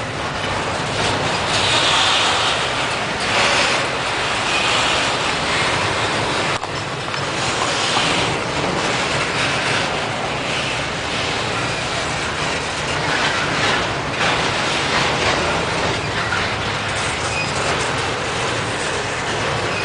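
Slow freight train rolling past: steel wheels on the rails, with an uneven clicking and clatter as the cars pass over the rail joints.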